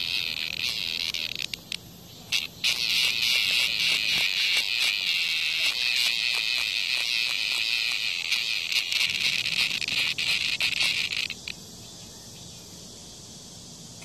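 Cicada buzzing loudly in two stretches: a short one, a break of about a second, then a long one that cuts off abruptly. It is the distress buzz of a cicada under attack by a hornet.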